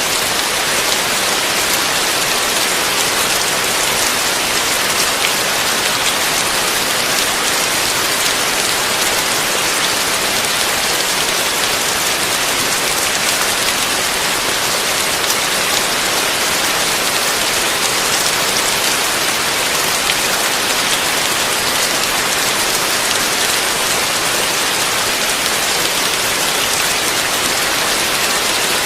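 Heavy rain falling steadily: an even hiss with fine droplet ticks throughout and no thunder.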